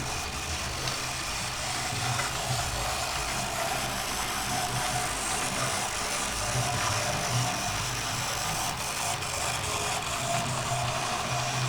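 Oxford Rail Adams Radial 4-4-2T OO gauge model locomotive running on track, a steady electric motor whine without letting up.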